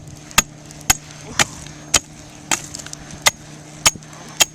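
A stick beating the burning remains of a paper airplane in a fire pit: sharp whacks about twice a second, eight in all.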